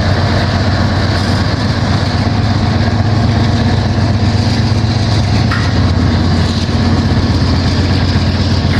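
BNSF freight train getting under way and passing: a steady low diesel locomotive drone over the rumble of empty grain hopper cars rolling by on the track.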